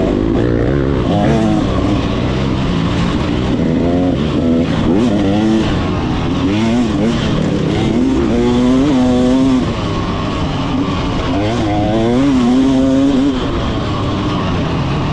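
Motocross bike engine revving up and easing off over and over as the bike is ridden.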